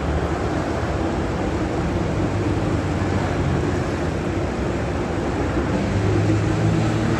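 Steady low machine hum with a hiss of noise over it.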